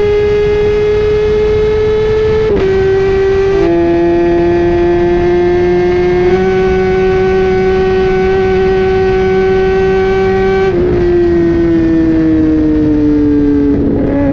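Kawasaki ZX10R's inline-four engine through an Akrapovic 3/4 exhaust, held at high revs with a steady, strongly pitched note. The pitch shifts abruptly a few times and glides down near the end as the revs fall.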